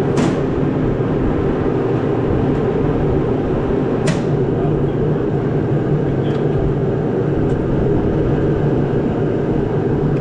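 Engine running steadily at a constant speed, with a few sharp clicks, the clearest at the start and about four seconds in.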